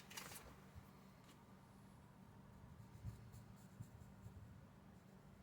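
Faint scratching of a pen marking out a shape on sheet plastic, over a low steady hum.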